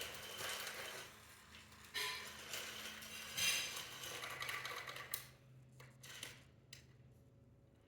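Toy trains and track pieces clattering and knocking as they are handled, then a few separate sharp clicks near the end.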